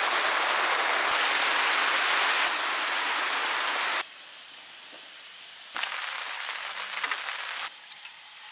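Steady rain-like hiss, loud at first, then cut off abruptly about four seconds in and followed by quieter stretches of the same kind of noise that start and stop suddenly twice more.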